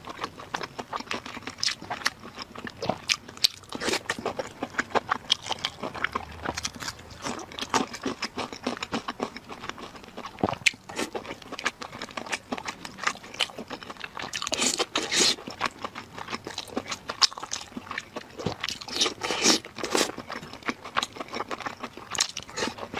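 A person eating close to the microphone: a dense run of crunching bites and chewing, with many sharp clicks and louder stretches a little past halfway and again near the end.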